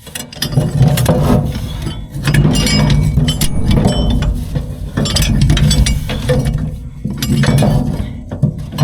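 Hand tools working metal parts on a Hesston haybine's drive: repeated spells of quick metallic clicking and clinking.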